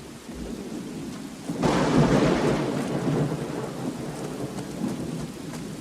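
Thunderstorm: steady heavy rain with rolling thunder, a sudden loud thunderclap about a second and a half in that rumbles away slowly.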